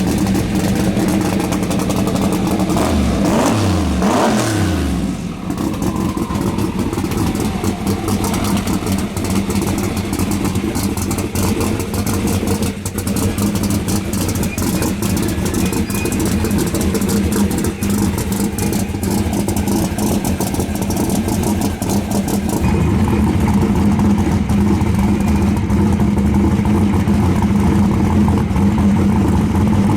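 Drag-racing car engine running loudly at a steady idle, with the pitch swinging a few seconds in and the engine getting heavier and louder about three-quarters of the way through. It starts revving up at the very end.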